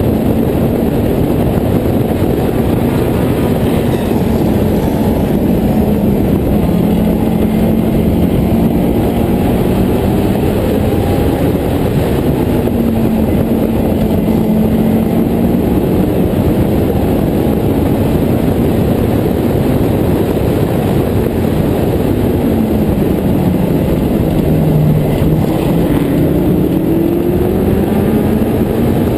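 Honda S2000 four-cylinder engine in an open-cockpit Westfield clubman racing car running hard on track, its pitch rising and falling with the throttle through the corners, dropping late on and then climbing again. Heavy wind rush on the microphone runs under it.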